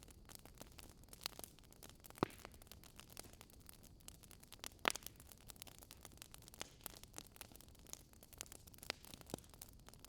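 Wood fire crackling in a fireplace: a soft steady hiss with scattered pops and snaps, the sharpest about two and five seconds in.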